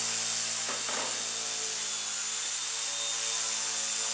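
Blade mCP X BL2 micro RC helicopter's brushless motor and rotor blades spinning steadily: an even whine with a strong hiss.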